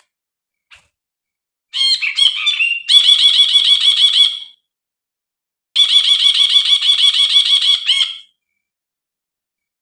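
Brinji (a bulbul) calling: two long, rapid runs of repeated sharp notes, each lasting two to three seconds, about a second apart.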